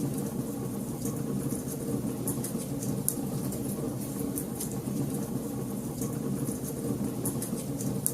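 Wood fire in a fireplace crackling: frequent small, sharp pops at irregular intervals over a steady low rumble of burning.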